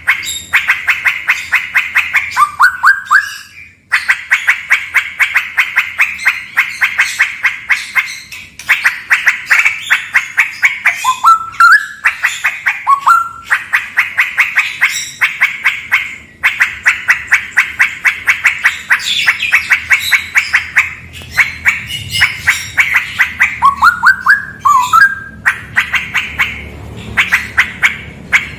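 Straw-headed bulbul (cucak rawa) singing: loud runs of rapid, repeated chattering notes, each run lasting a few seconds, broken by short rising phrases.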